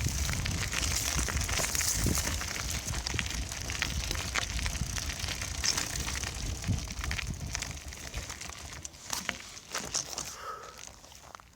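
Wind rumbling on the microphone with crackling and rattling, as from a bicycle riding over rough ground; it dies down over the last few seconds.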